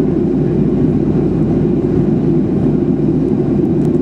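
Steady cabin roar of a Boeing 737-800 in flight: airflow and engine drone, heavy in the low-to-mid range and unchanging.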